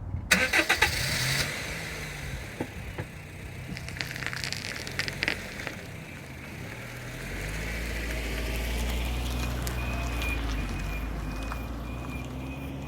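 GE8 Honda Fit rolling along, its low running rumble building about seven seconds in, with a faint high-pitched squeal from the brakes that pulses at an even rhythm with the brakes released, despite brand new pads. Crackling clicks and rattles come in the first second or so and again around four to five seconds.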